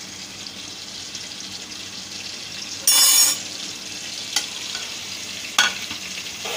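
Ginger-garlic paste and whole spices sizzling steadily in hot cooking oil, with a sudden louder burst lasting about half a second around three seconds in and two sharp clicks after it.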